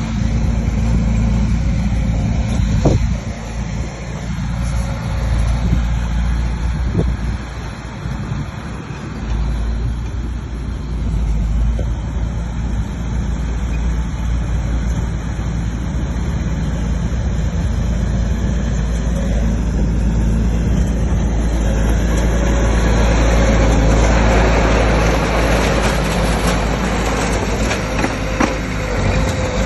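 Bulldozer's heavy diesel engine running steadily, with a couple of short knocks early on. From about two-thirds of the way through it grows louder and harsher.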